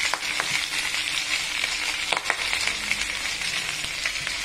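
Chicken feet sautéing in hot oil in a wok: a steady sizzle full of small pops and crackles, with now and then the knock and scrape of a wooden spatula stirring them.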